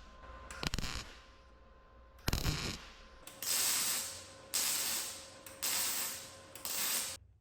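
Mechanical tool noise: two short knocks, then four noisy strokes of about a second each.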